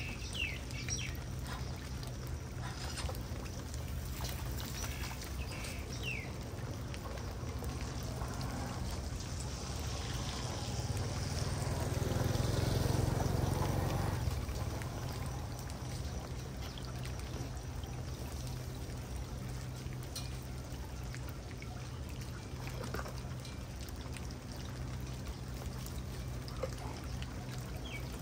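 Floodwater pouring and gurgling into a street storm drain. It swells to its loudest about halfway through, then settles back.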